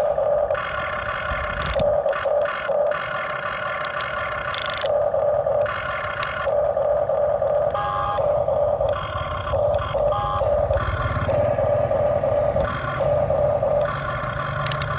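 Huina radio-controlled excavator's small electric motors whining in repeated stretches of about a second, starting and stopping as its controls are worked, with a lower rumble joining in the second half.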